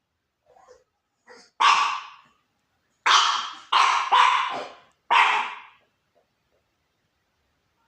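A puppy barking: five loud, sharp barks over about four seconds, the middle three in quick succession, after a couple of faint short sounds.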